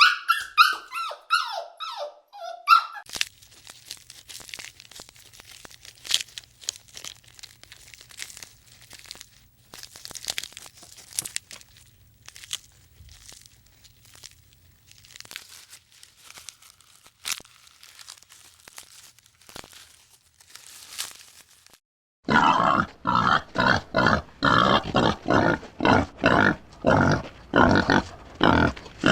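An animal's high squeaks, each falling in pitch, for the first few seconds; then soft scattered crunching and clicking. Near the end, loud rhythmic grunting starts, two to three grunts a second.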